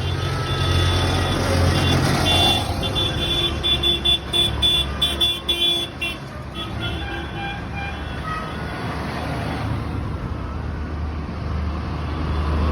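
Tractor engines running steadily as tractors go by. About two to six seconds in, a string of short high-pitched tones pulses over the rumble.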